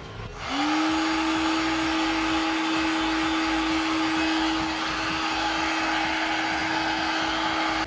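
Electric heat gun switching on about half a second in, its fan motor rising to a steady hum under the rush of blown hot air as it heats an engine bearing so the bearing expands for fitting. It cuts off suddenly at the end.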